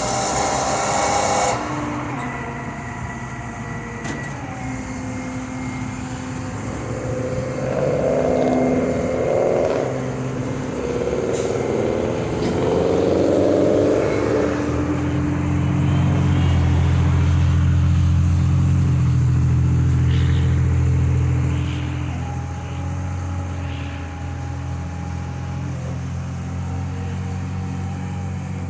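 A motor vehicle's engine running, with bursts of noise about 8 to 14 seconds in, then a louder, deeper engine sound from about 15 to 22 seconds in.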